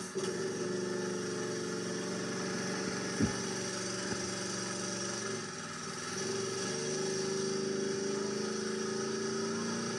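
Predator 212 single-cylinder four-stroke engine on a minibike, throttled up and held at steady revs during a failed burnout attempt. It eases off for a moment about five and a half seconds in, then picks back up. A single sharp knock comes about three seconds in.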